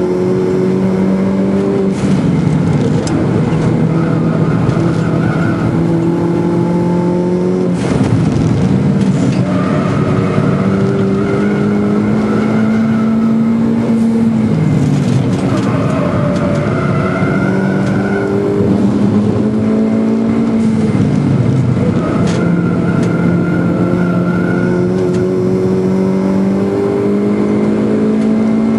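Schäfer Mini Clubsport's engine heard from inside the cabin, driven hard: its pitch climbs and drops back several times over a steady rush of road and wind noise.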